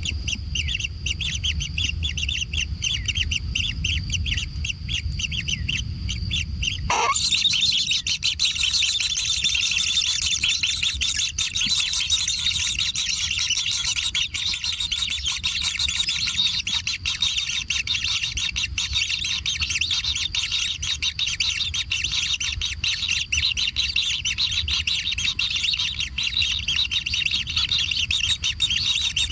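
Kingfisher nestlings begging: a dense, rapid, continuous chatter of high calls from several chicks. It shifts abruptly about seven seconds in, when a low rumble drops away and the chatter becomes fuller.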